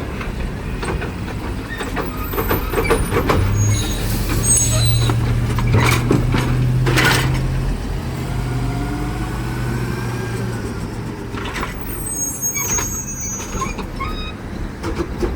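Automated side-loader garbage truck working: a steady low hum for several seconds in the middle, with repeated clanks and knocks, a couple of short hisses and high metallic squeaks.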